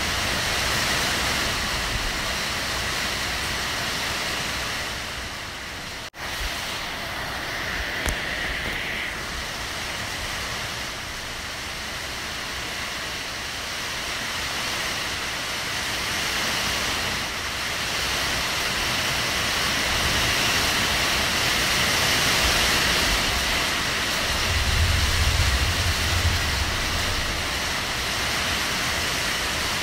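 Heavy rain pouring down in a steady, dense hiss. The sound cuts out for an instant about six seconds in, there is a single click a couple of seconds later, and a low rumble swells under the rain near the end.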